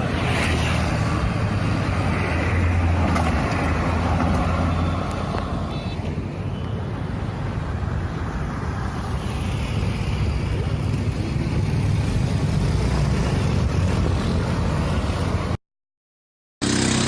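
Motor vehicle engine running steadily under a broad hiss of wind and road noise. The sound cuts out suddenly about a second and a half before the end, then resumes.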